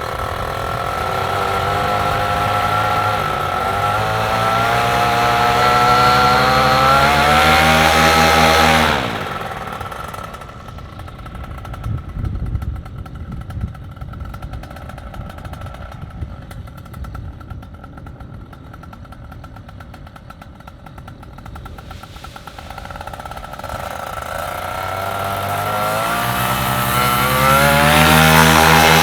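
Paramotor engine and propeller throttling up, rising in pitch over the first nine seconds, then cut back abruptly to a low idle with gusty wind noise. Near the end it throttles up again to full power for the takeoff run.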